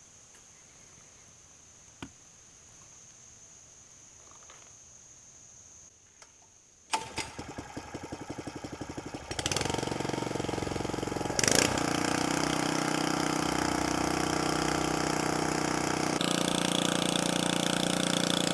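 Small gasoline engine of a Harbor Freight clean water pump starting about seven seconds in: it sputters unevenly for a couple of seconds, catches with a loud burst, then runs steadily while pumping creek water, its pitch shifting slightly near the end.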